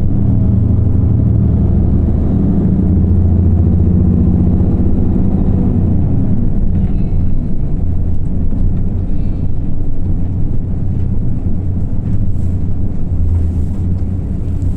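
Running sound of an Isuzu Erga (PKG-LV234L2) city bus's diesel engine, its coupling cooling fan engaged in the summer heat. The engine note holds steady, then turns lower and rougher after about six seconds, with a few faint high beeps about seven and nine seconds in.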